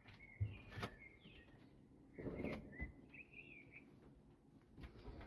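Faint bird chirps and short warbling calls, in two bursts, with a few soft knocks between them.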